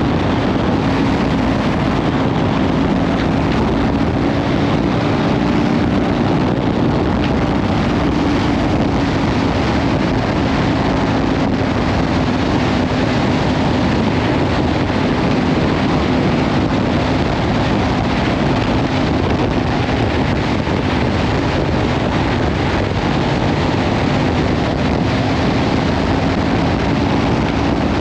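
Kawasaki Ninja 500 parallel-twin with a Leovince slip-on exhaust running at a steady cruise, its engine note holding nearly constant pitch. Heavy wind noise on the microphone rushes over it throughout.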